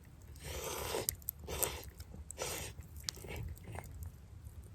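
A person slurping hot champon noodles and broth, three slurps in the first three seconds, with quieter chewing between them.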